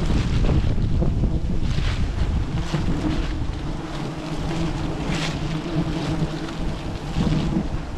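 Wind buffeting the microphone in gusts, with a steady low hum underneath through the middle.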